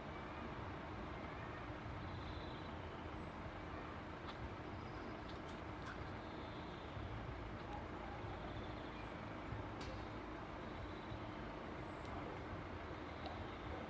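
Steady rumble of road vehicles at a railway level crossing, with a faint held low hum under it. A faint short, high, falling chirp recurs about every three seconds.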